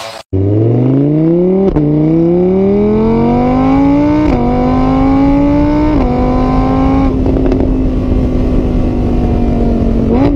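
A car engine accelerating hard through the gears. Its note climbs steadily, drops back sharply at each of three upshifts, then holds a steady cruising note.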